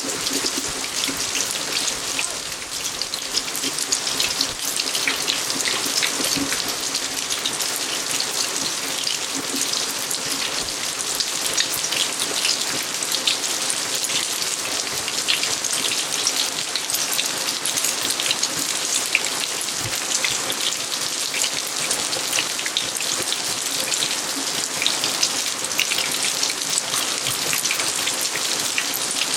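Steady rain falling in a garden, with many individual drops hitting close by over an even wash of rainfall.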